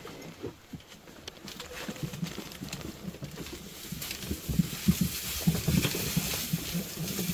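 Farm animals moving about, with irregular low knocks that grow louder about four seconds in, over a steady hiss.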